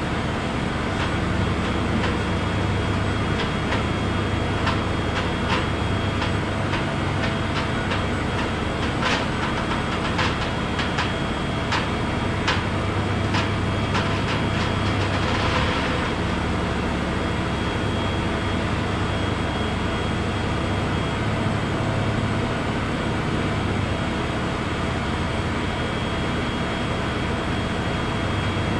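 An engine or motor running steadily. A string of light clicks and ticks runs through the first half, and a short hiss comes about fifteen seconds in.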